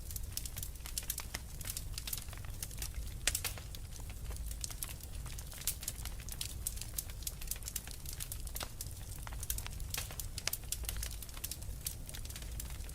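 Wood fire burning in a fireplace, crackling with a dense, irregular run of small pops over a low rumble.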